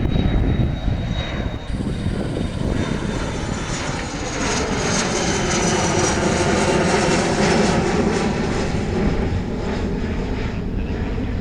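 Jet airliner passing close by. Its engine roar swells and fades, and a sweeping, hollow tone dips and rises as it goes past.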